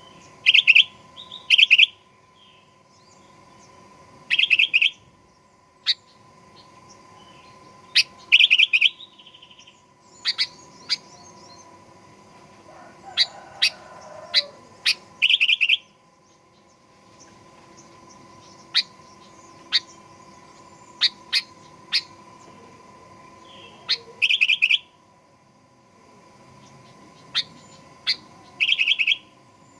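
Sooty-headed bulbul (kutilang) calling in short bursts of bright, chirpy notes a few seconds apart, with single sharp notes in between. A faint steady hum runs underneath.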